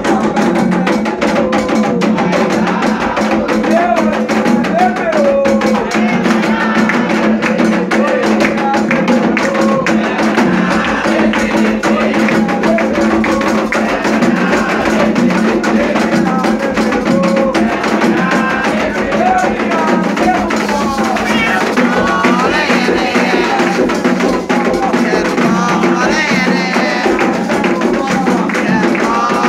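Candomblé ceremonial music: atabaque hand drums playing a fast, dense rhythm under group singing of a chant.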